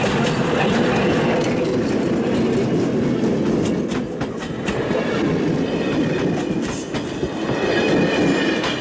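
Passenger train passing close by: a Czech-built T669 diesel locomotive followed by its coaches, wheels clicking over the rail joints, with a steady loud rumble of rolling stock.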